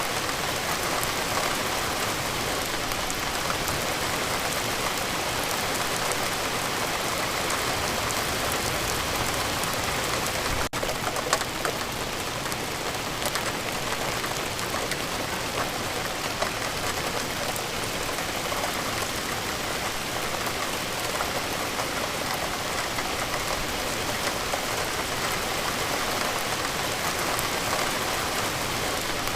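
Steady rain falling, a dense even hiss flecked with the ticks of individual drops. There is a split-second dropout about a third of the way through.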